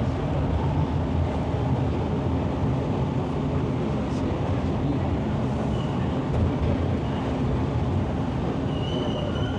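TTC subway train running, heard from inside the car: a steady rumble of wheels and motors on the track. A faint high squeal comes in briefly about six seconds in and again near the end.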